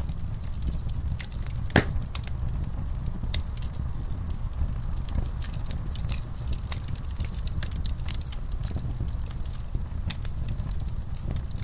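Wood fire in a fireplace crackling, with frequent irregular sharp pops over a steady low rumble of burning; one louder pop about two seconds in.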